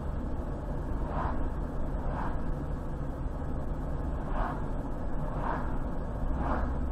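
Car driving along a highway: steady road and engine rumble, with a soft repeated sound about once a second.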